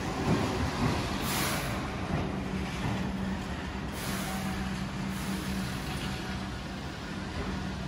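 Keihan 8000-series electric train moving slowly along an underground station platform: steady rolling rumble and wheel noise with a low hum, easing off gradually, and brief hisses about a second and a half, four and five seconds in.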